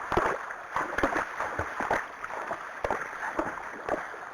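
Arabian horse drinking: irregular splashes and slurps of water at its muzzle.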